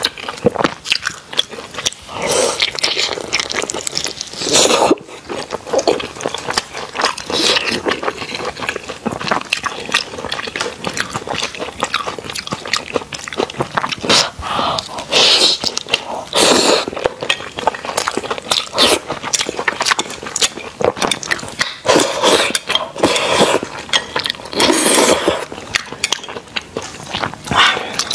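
Close-miked eating of steamed dumplings: biting and chewing with many wet mouth clicks and smacks, louder in spells every few seconds.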